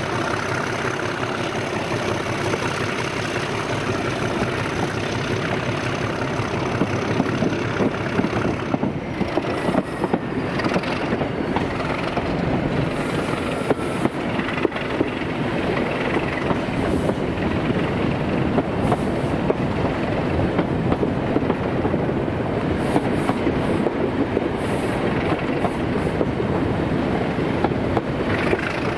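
A diesel-hauled train running by on jointed track, with a steady engine noise and the wheels clicking over the rail joints.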